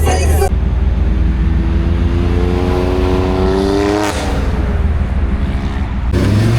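A car engine accelerating, its pitch climbing steadily for about three and a half seconds before dropping suddenly, then running lower. Near the end another engine revs up, rising in pitch.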